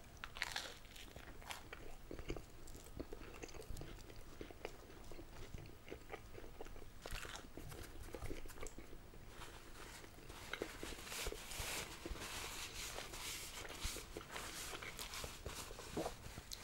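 Chewing and crunching a bite of toast, with many small crisp crackles. Near the end a paper napkin is crinkled and folded in the hands.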